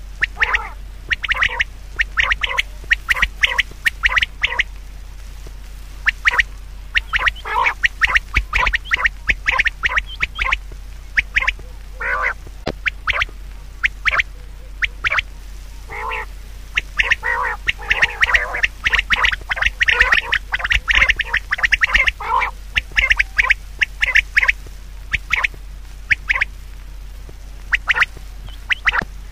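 Many short, harsh animal calls in quick runs, on and off throughout, over a steady low hum.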